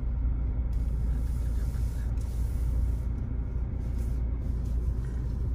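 Steady low rumble of a motor vehicle, with no clear speech over it.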